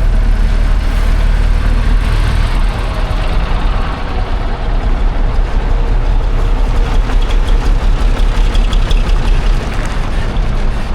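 Diesel engine of a classic bus running steadily and loud, with a deep, rapid, even throb.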